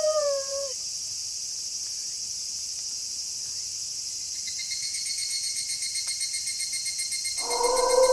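Wolf howl sliding down in pitch and ending just after the start, over a steady night chorus of crickets trilling; a second, fast-pulsing cricket chirp joins about halfway, and a new wolf howl begins near the end and is the loudest sound.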